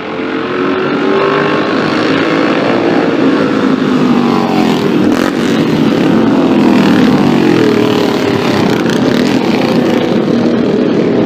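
Classic racing car engine at high revs under hard acceleration, getting louder over the first second, its pitch climbing and dropping again as it runs up through the gears.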